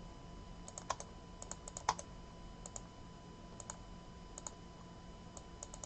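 Faint, scattered clicks of a computer keyboard and mouse, a few taps at a time with pauses between them, over a low steady hum.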